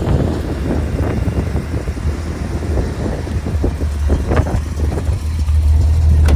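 Small-block Chevrolet 350 V8 idling with a steady low rumble, growing louder near the end.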